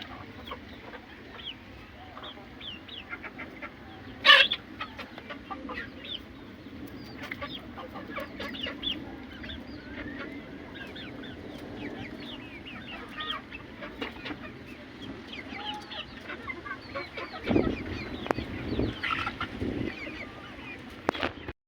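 Aseel chickens clucking, with many short high chirping calls throughout. A sharp, loud sound comes about four seconds in, and louder calls come near the end.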